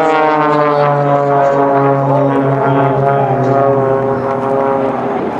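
Cap 580 aerobatic propeller plane flying past, its engine drone falling slowly in pitch as it goes by and easing off near the end.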